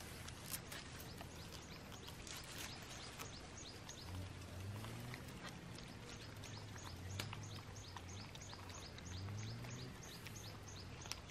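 Outdoor ambience with a bird repeating short high chirps, about three a second, through the second half, over a faint low hum and a few soft clicks near the start.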